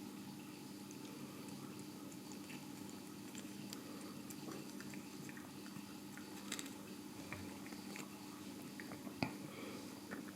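A tabby cat chewing and biting its food: small irregular wet clicks and crunches, with one sharper click about nine seconds in.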